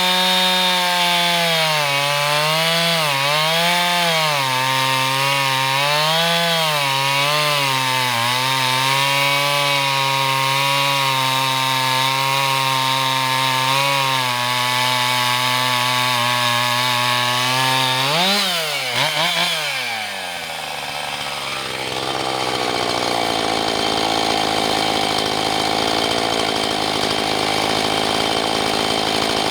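Husqvarna 445 two-stroke chainsaw running under load in a Granberg Alaskan mill, ripping a board from an oak log, its pitch wavering as it works through the cut. About two-thirds of the way in, the revs dip sharply twice and the saw drops to a lower, rougher running.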